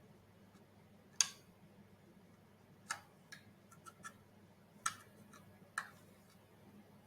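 A series of short, sharp clicks and taps, about eight, irregularly spaced, the first the loudest: small hard parts of a robot head being handled and fitted together by hand. A faint steady low hum runs underneath.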